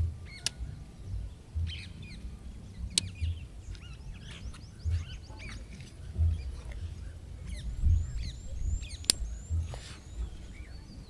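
Small birds chirping, with many quick calls sliding up and down in pitch. Under them runs a series of dull low thuds about once a second, and a few sharp clicks stand out.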